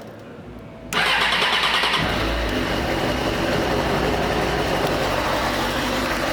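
2005 Suzuki GSX-R600's inline-four engine being started: the electric starter cranks about a second in, the engine catches a second later and then idles steadily.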